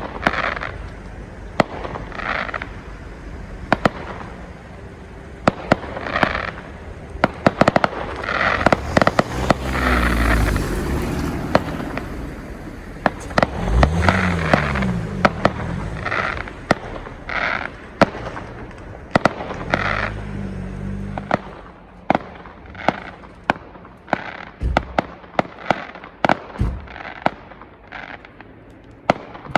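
Bonfire Night fireworks: a steady run of sharp cracks and pops mixed with hissing bursts, with a few louder, deeper swells of sound in the middle.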